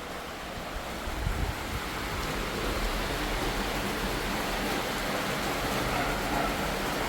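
Strong wind blowing in gusts, rushing steadily and growing louder, with low rumbles from the wind buffeting the microphone about a second in.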